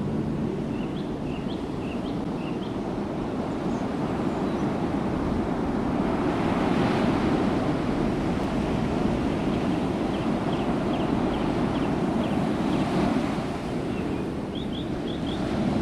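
Steady outdoor rushing noise, like wind buffeting the microphone or moving water, with a few runs of short high chirps about a second in, around ten seconds in, and near the end.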